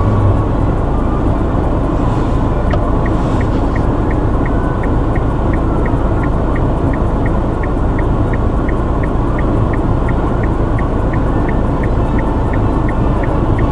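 Steady low rumble inside a car's cabin with the engine idling. From about three seconds in, the turn-signal indicator relay ticks evenly, about three clicks a second.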